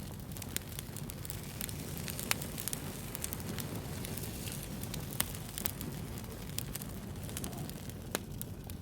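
Wood campfire burning with a steady low rumble and irregular sharp crackles and pops from the burning wood, the loudest about two and five seconds in.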